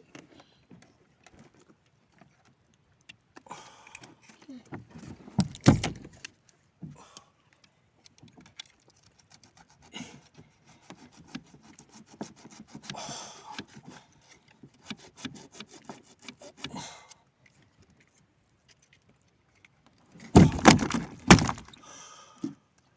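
Irregular clicks, rattles and knocks, with heavy thumps about six seconds in and a louder cluster of thumps near the end.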